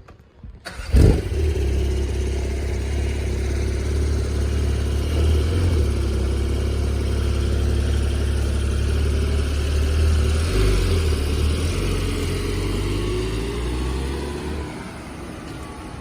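Porsche 911 Turbo S (992) twin-turbo flat-six starting up: a sharp flare of revs about a second in, the loudest moment, then a fast, steady idle that drops to a lower, quieter idle near the end.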